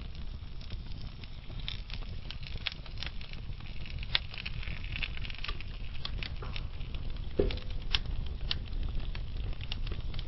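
Wood fire burning slowly in a fireplace: a steady low rumble with scattered sharp crackles and pops, a few louder snaps about four, seven and a half and eight seconds in.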